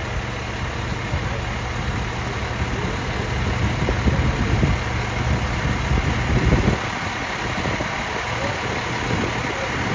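Heavy truck engines idling in a steady low rumble mixed with street noise, growing louder for a few seconds around the middle.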